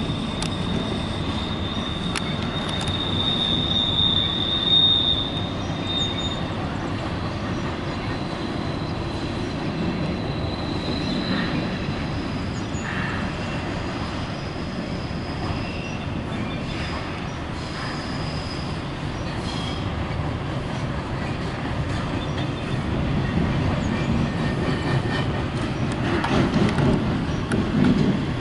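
Norfolk Southern double-stack intermodal freight train rolling across a girder bridge: a steady rumble of wheels on rail. A high, steady wheel squeal is loudest in the first six seconds and returns more faintly later, with occasional clicks from the rail joints.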